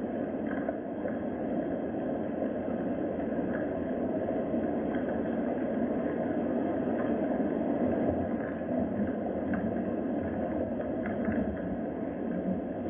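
Steady rain: an even rushing noise with a few faint scattered ticks.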